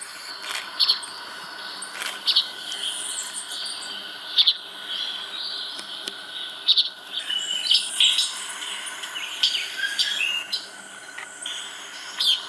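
Wild birds calling: short, sharp chirps repeated every second or two, over a steady faint high hum.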